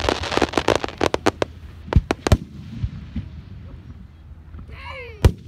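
Aerial fireworks display: a dense crackle of many small pops for the first second or so, then two loud shell bursts about two seconds in and another sharp bang near the end.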